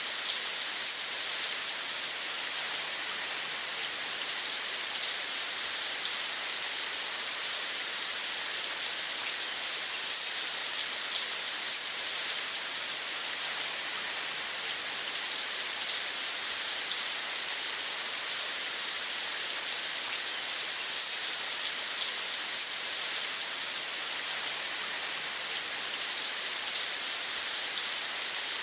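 Steady rain falling: an even hiss, mostly high in pitch, that does not change.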